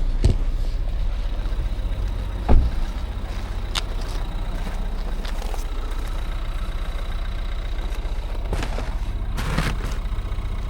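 Timber truck's diesel engine idling steadily, with a few short knocks and clicks over it, the loudest about two and a half seconds in.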